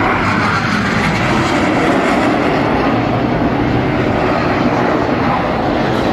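Jet engine noise from the Red Arrows' BAE Hawk T1 jets as the formation splits in the Gypo break: a loud, steady rushing noise without a let-up.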